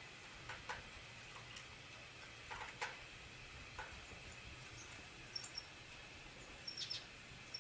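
Light scattered clicks and taps with a few very short, high chirps from a small bird, a pair a little past halfway and a quick cluster near the end, over a faint steady high tone.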